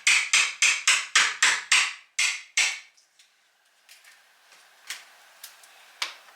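A hammer tapping rapidly, about four blows a second, in a run that stops about three seconds in. A few faint small clicks and taps follow.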